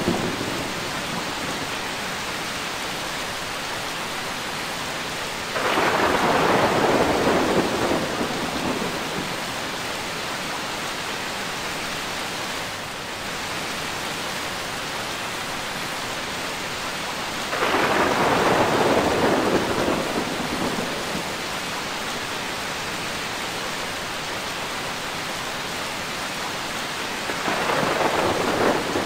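Steady rain with thunder breaking in three times, each rumble starting suddenly and fading over a couple of seconds.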